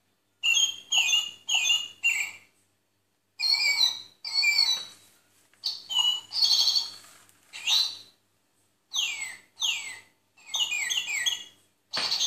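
Bird-like chirps and whistled calls in short bursts: quick chirps, then sweeping whistles that slide up and down in pitch, with brief silences between the groups.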